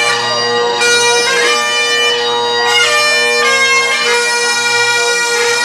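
Bagpipes playing a tune: the melody notes change over steady, unbroken drones.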